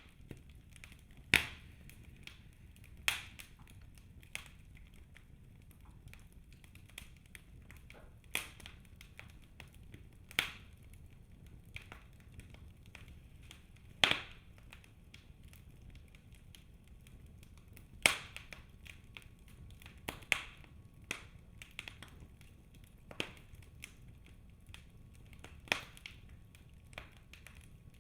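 Wood fire burning in a fireplace: a low steady hiss with irregular sharp crackles and snaps from the burning logs, a dozen or so, a few of them much louder than the rest.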